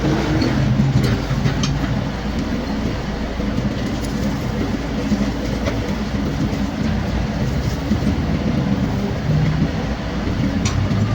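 Mini excavator's diesel engine running with a steady low rumble, with a few short sharp knocks near the start and again near the end.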